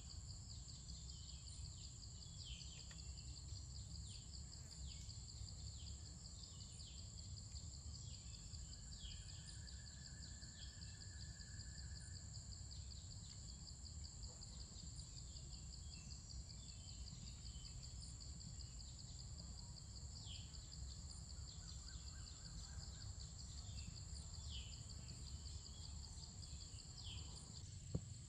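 Forest insects trilling steadily at a high pitch, with many short falling bird chirps over them and a faint low rumble beneath. A single sharp click comes near the end.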